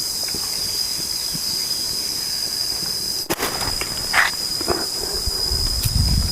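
Forest insects droning steadily at one high pitch over a hiss. A few light knocks and scrapes come past the middle, and low rumbling builds up near the end.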